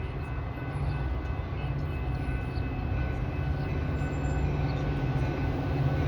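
Diesel commuter train arriving at the station: a steady low rumble that grows gradually louder, with a faint steady high whine on top.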